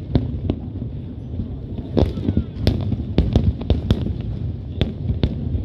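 Aerial fireworks shells bursting in irregular succession: about a dozen sharp bangs over a continuous low rumble of booming explosions.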